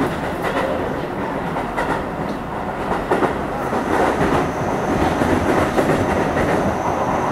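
Keio 9000 series electric train running, heard from inside the car: steady rolling noise with wheels clicking irregularly over rail joints. A thin high whine sets in about halfway through.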